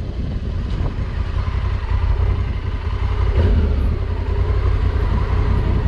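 2020 Honda Africa Twin's parallel-twin engine running steadily at low speed, a steady low rumble.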